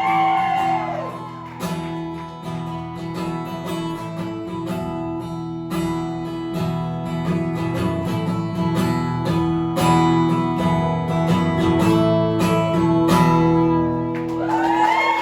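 Acoustic guitar strumming held chords through a song's instrumental ending, with a strum every second or two.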